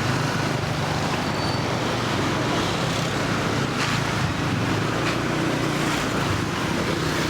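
Motor scooter running at a steady speed in road traffic: a constant low engine hum under a steady rush of traffic and road noise.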